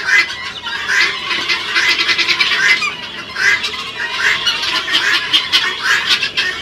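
A flock of helmeted guineafowl calling, with harsh, overlapping cries and rapid rattling calls repeating about once or twice a second.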